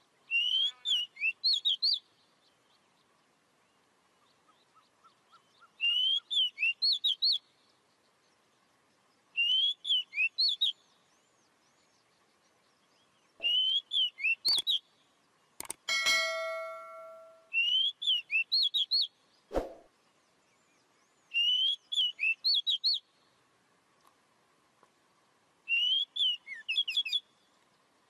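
A bird singing a short phrase of quick whistled notes, repeated seven times about every four seconds. Around the middle come a few sharp clicks and a brief ringing tone that fades out.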